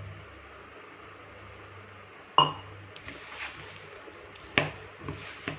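Kitchen dishes clinking while dough is mixed in a bowl. One sharp clink rings out about two and a half seconds in, followed by two more near the end, with soft handling sounds in between.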